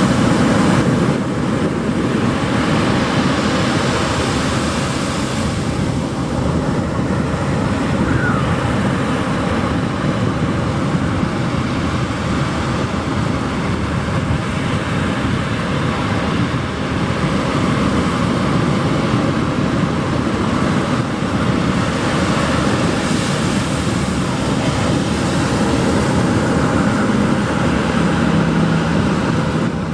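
Ocean surf washing on a beach, a continuous rushing noise that swells and eases gently. A low steady hum comes in near the end.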